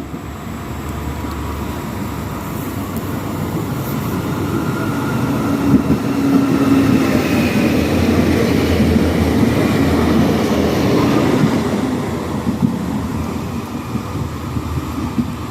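A train passing through the station without stopping: wheel and rail rumble with a faint steady whine, growing louder, peaking about halfway through, then fading.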